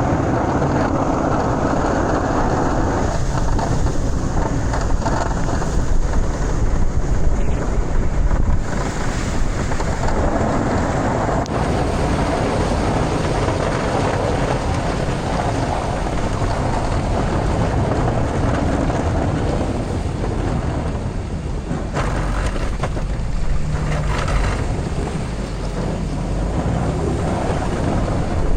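Cummins diesel pickup truck running steadily under a loud, even rushing noise.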